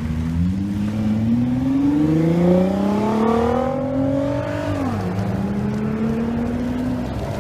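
Supercar engine accelerating hard, its note climbing steadily for about four and a half seconds, then dropping sharply at the shift or lift-off and holding a steady lower note.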